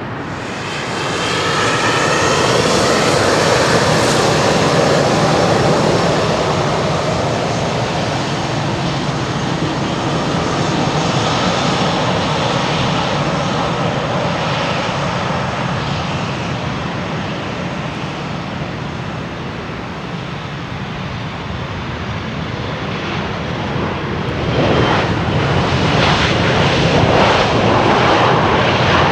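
Ryanair Boeing 737-800's CFM56 jet engines on landing approach, a loud steady jet rush with a whine. It swells about a second in and grows again near the end with a rough, crackling edge.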